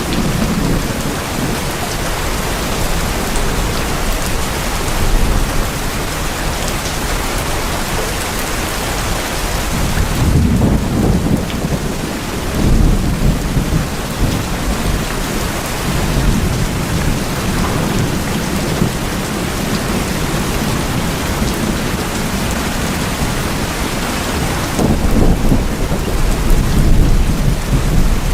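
Steady heavy rain drumming on a tin roof, with low rolls of thunder swelling about a third of the way in and again near the end.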